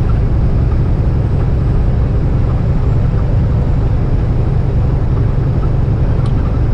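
Semi truck's diesel engine running steadily at highway cruise, heard from inside the cab as an even low drone with road noise.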